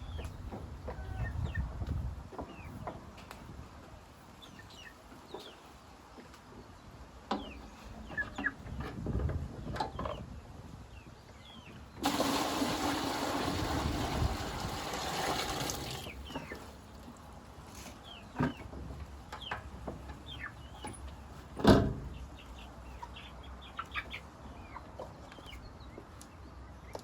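Chickens clucking and small birds chirping now and then. There is a louder rushing noise for about four seconds around the middle, and a single sharp knock a few seconds later.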